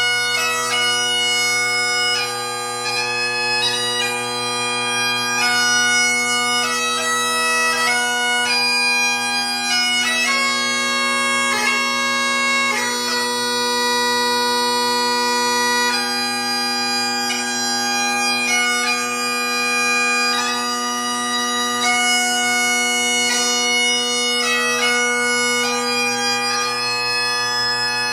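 Great Highland bagpipe playing solo light music: the drones sound a steady chord underneath while the chanter plays a quick melody of changing notes.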